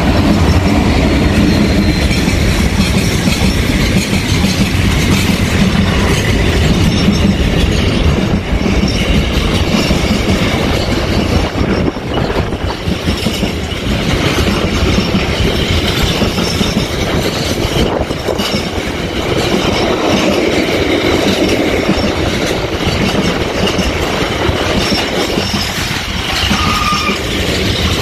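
A Class 66 diesel locomotive's two-stroke V12 engine passing close at the start, then a long train of container wagons rolling by with wheels clattering over the rail joints and some wheel squeal, including a short squeal near the end.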